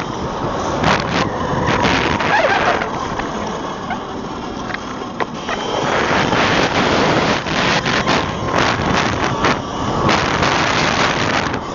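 Wind rushing over the camera microphone while riding an Eride Pro SS 3.0 electric motorbike, with a faint steady whine and scattered clicks and knocks.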